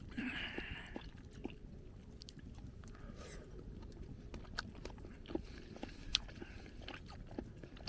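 Quiet close-up eating sounds: a person chewing a soft, simmered whole new onion, with light scattered clicks.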